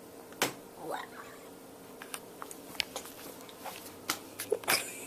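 Quiet room with a faint steady hum, broken by a few short clicks and taps and one brief spoken "What?" about a second in.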